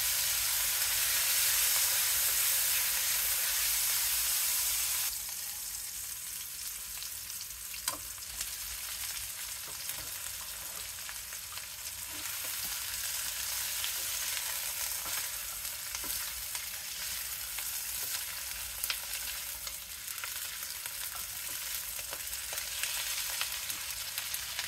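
Oil sizzling hard in a wok as sliced shallots, garlic, chillies, lemongrass and ginger fry. About five seconds in it drops abruptly to a quieter sizzle, with a spatula scraping and tapping in the wok as pieces of fried chicken are stirred through the aromatics.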